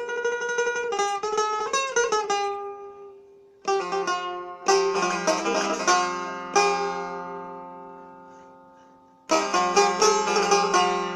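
Small-bowled Farhadi Persian setar, built in the Haj Taher style, played solo. A run of quick plucked notes, with a note bent up and back down about two seconds in, gives way to a few single strokes that ring and die away slowly; rapid plucking starts again near the end.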